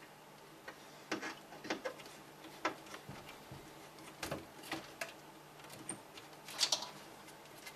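Irregular light clicks and taps of a screw and screwdriver being worked at in a PC case, with a screw that will not catch its thread.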